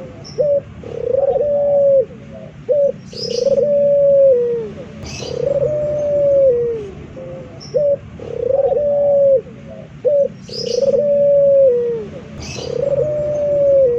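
Male puter (Barbary dove) cooing over and over: a short note followed by a longer coo that falls in pitch at the end, repeating about every two seconds. A few brief high chirps from another bird come in between.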